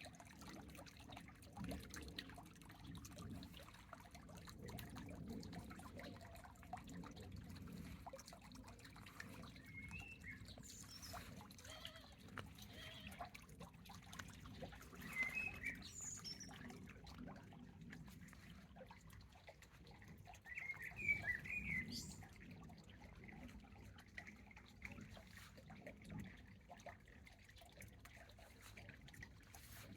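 Birds chirping in brief twittering calls now and then, the loudest cluster about two-thirds of the way in, over faint dripping of rainwater from leaves.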